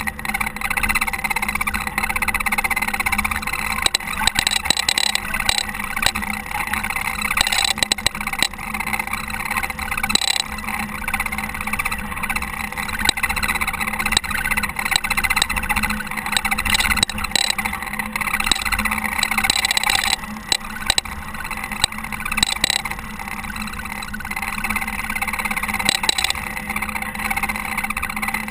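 Caterpillar TH330B telehandler's diesel engine running steadily, with occasional brief knocks.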